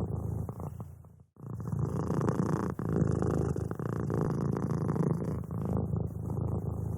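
Domestic cat purring steadily, with a brief pause about a second in before the purring resumes.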